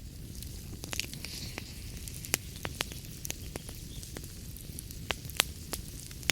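Wood fire crackling in a fireplace: irregular sharp pops and snaps, a few louder ones about two and a half and five and a half seconds in, over a steady low rumble of the burning fire.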